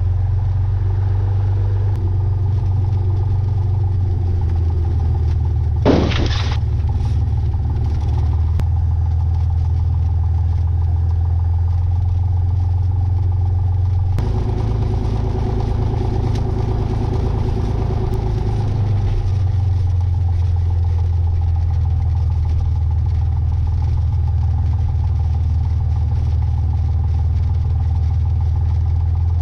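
Cessna 182's piston engine running steadily at low taxi power, a deep even drone. About six seconds in there is a brief sharp crackle, and between about fourteen and nineteen seconds in the engine note changes for a few seconds before settling back.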